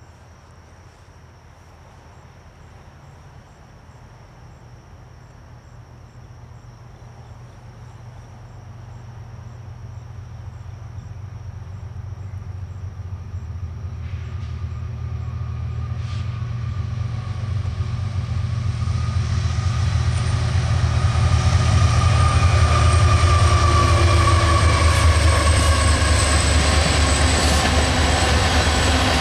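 A GE GEVO and an EMD SD70M diesel-electric locomotive hauling a train of tank cars: a low diesel engine rumble that grows steadily louder as the train approaches, loudest about three-quarters of the way through as the locomotives pass. Higher-pitched wheel and rail noise joins in as they come close, and tank cars roll past near the end.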